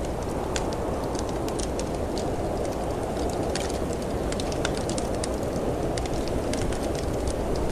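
Wood fire crackling, with many small sharp pops at irregular moments, over a steady low rush of snowstorm wind.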